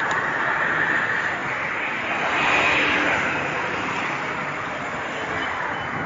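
Steady road and traffic noise mixed with wind on the microphone during a bicycle ride, briefly growing louder about two seconds in.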